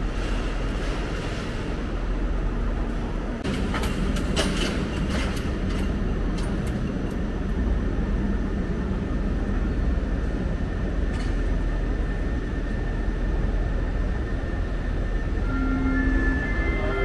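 A train moving through the station with a steady rumble of wheels on track, and a cluster of sharp clicks and clatter about four to five seconds in. Near the end, steady whining tones set in.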